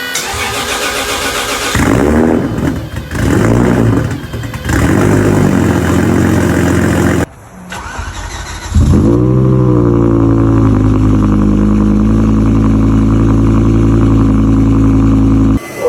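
Two V10 car engines cold-starting in turn. The first catches about two seconds in and revs in a few flares before settling. After a cut, the second cranks briefly, catches with a rev flare that falls away, and settles into a steady fast idle.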